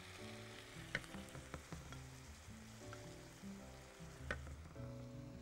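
Minced meat, onion and pine-nut filling sizzling quietly in a frying pan while a wooden spoon stirs it. The spoon clicks against the pan a few times.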